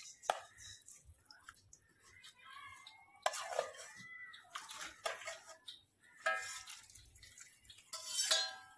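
Dish and utensil clinks with wet dripping and splashing as milk-soaked roti is tipped into a dog's food bowl.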